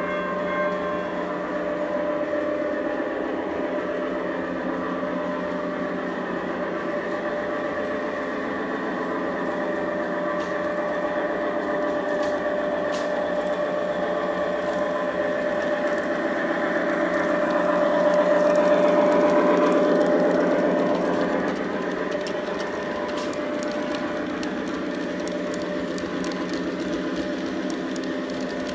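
LGB garden-scale model train running on its track: a steady electric-motor hum with light clicking of the wheels. It swells louder about two-thirds of the way through as the train passes closest, then eases off again.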